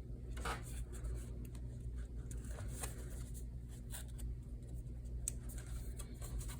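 Faint paper rustling and scratching as a needle is worked through the folded pages of a hand-bound journal and waxed thread is pulled through the stitch holes, over a low steady hum.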